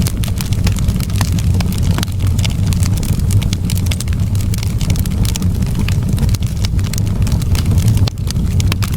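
Wood fire in a fireplace crackling, with many sharp, irregular pops and snaps over a steady low rumble of the burning fire.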